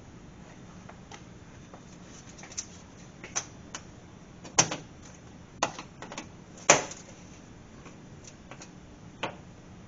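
Plastic engine undercover of a 2022 Honda Civic being fitted from below: irregular clicks and knocks of the panel and its push-in quarter-turn fasteners, two sharper knocks near the middle.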